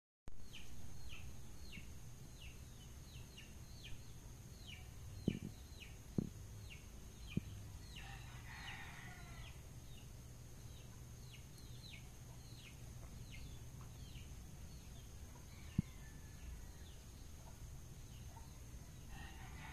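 Birds chirping: a steady run of short, high, falling chirps, two or three a second, with a louder, rougher call twice. A few faint knocks and a low hum sit underneath.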